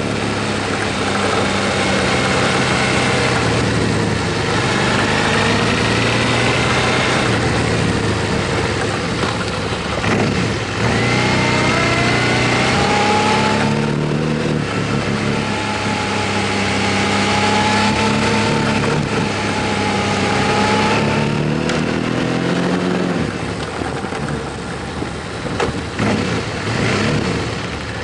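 Motorcycle engine running under way, its pitch climbing through each gear and dropping at several gear changes, with a whine rising alongside and steady wind and road noise.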